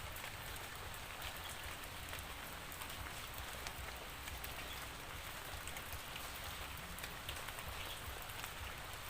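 Steady rainfall with many individual raindrops ticking sharply on a surface, over a low rumble.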